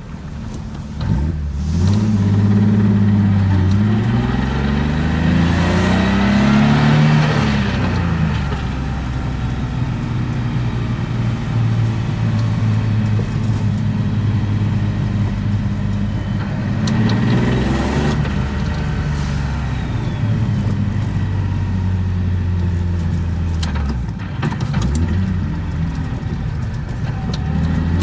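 BMW M50B25 2.5-litre inline-six with aftermarket headers and exhaust, heard from inside the car under load: revs climb hard about two seconds in, fall away near eight seconds, hold steady, rise again, dip sharply near the end and pick up once more as the car accelerates.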